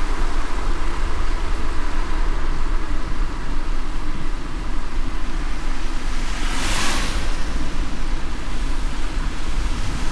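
A car driving in light rain: a steady low road rumble under an even hiss of wet road and rain. A brief whoosh comes about seven seconds in.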